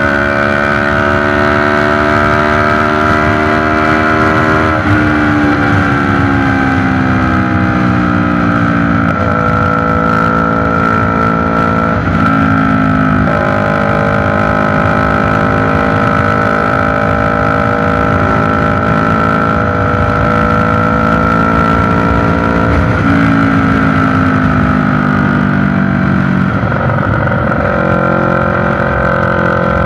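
CFMoto 400NK's parallel-twin engine running through a newly fitted SC-Project slip-on exhaust, held at raised revs that sag slowly and are picked up again several times. The revs stay moderate because the engine is still in its break-in period.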